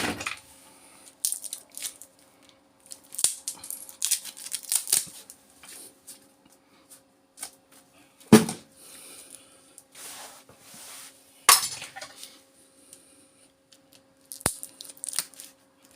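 Scattered clinks and clicks of small metal parts of a power-adapter transformer being handled and pried apart with pliers, with a sharper knock about eight seconds in and another near twelve seconds.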